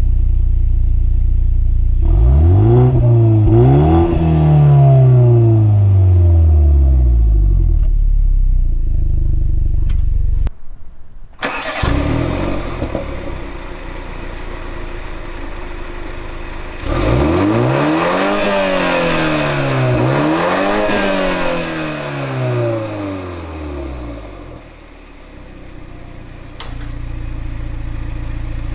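BMW 330i's turbocharged 2.0-litre four-cylinder engine idling and revved in quick blips: two short blips and a longer rev that falls back, then after a brief break three more blips in a row, and the revs climbing again near the end.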